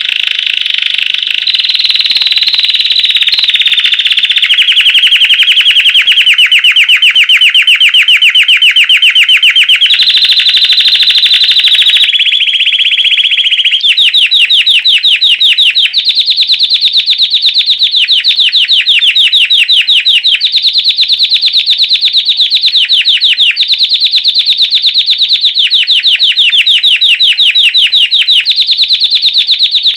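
Belgian canary singing a long, unbroken song of very fast rolled trills, switching to a new trill every two seconds or so.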